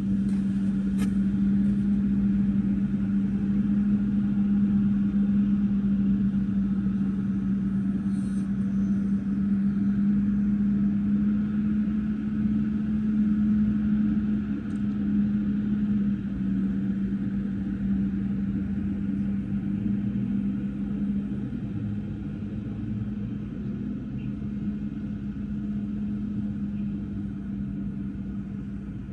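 An engine running steadily with an even, constant hum, fading slightly toward the end.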